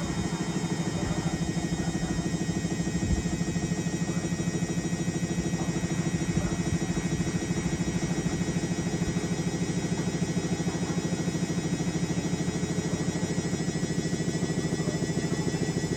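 Indesit My Time EWD61052 washing machine running: a steady mechanical hum with a fast, even pulse and a high motor whine.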